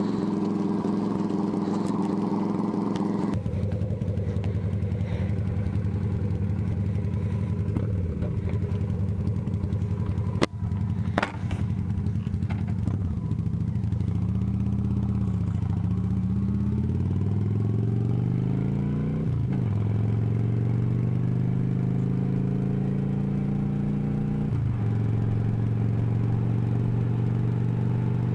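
Motorcycle engine running. Its note changes about three seconds in, then rises twice and drops sharply at two upshifts, as it accelerates through the gears. Two sharp clicks come about ten and eleven seconds in.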